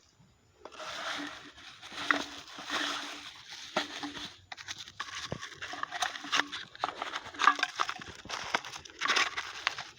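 Plastic litter and a bag rustling and crinkling as they are handled, with many short clicks and crackles.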